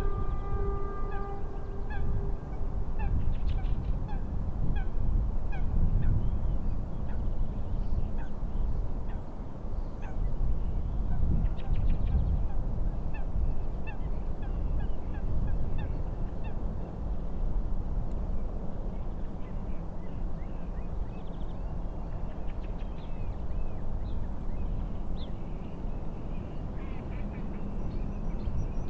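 Steady low rumble of wind and waves, with birds calling in short repeated chirps over it. A sustained train horn note is fading out during the first few seconds.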